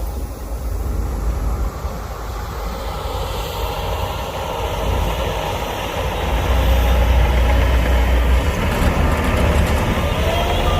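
Heavy diesel engine of earthmoving machinery running, a deep steady rumble that grows louder through the middle, with a rising whine near the end.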